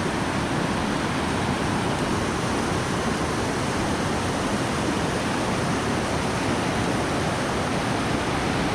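River water rushing over rocks at close range, a steady, loud noise with no change.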